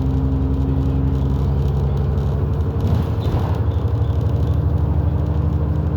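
London double-deck bus engine running under way, heard from inside the bus, with a steady hum over road noise. About three seconds in the engine note shifts to a new pitch and then holds steady again.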